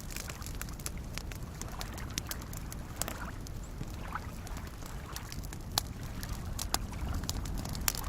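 Campfire crackling with frequent sharp pops and snaps, a few louder ones in the second half, over a low steady wash of small lake waves lapping.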